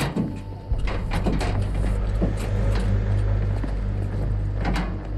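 A steady, deep vehicle rumble that sets in under a second in, with a series of sharp clunks and knocks scattered over it, the most prominent near the start and near the end.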